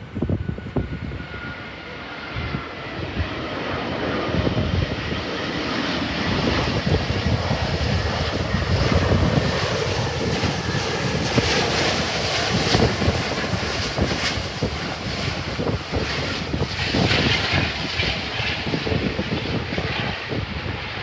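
Widebody jet airliner engines, growing louder over the first several seconds and then holding loud. A faint whine falls in pitch near the start, and gusts of wind buffet the microphone.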